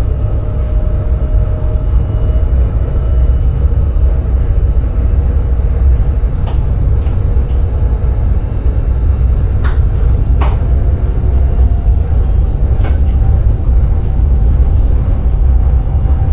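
Sprinter electric train running at speed, heard from the driver's cab: a steady, loud low rumble with several sharp clicks partway through.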